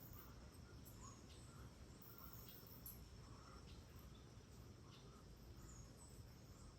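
Faint tropical rainforest ambience: a steady high insect drone, with scattered short bird chirps and soft clicking about once a second.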